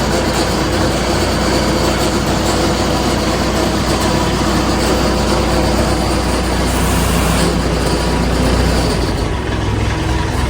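A tow truck's engine running steadily while the truck maneuvers, a continuous low hum. The lowest part of the hum drops away about nine seconds in.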